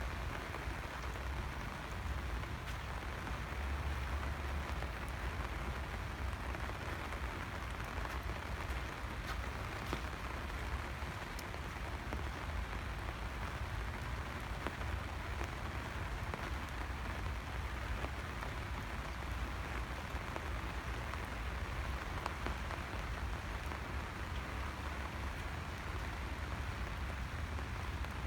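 Steady rain falling on hard surfaces: an even hiss with faint scattered drop ticks over a low rumble.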